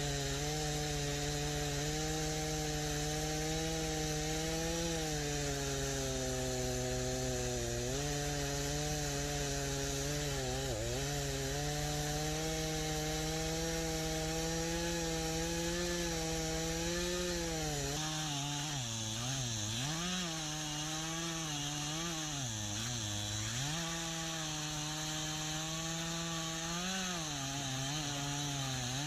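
Stihl MS 251 C two-stroke chainsaw running at high revs while cutting into pine. Its engine pitch dips briefly as the chain loads up in the cut, several times in the last third.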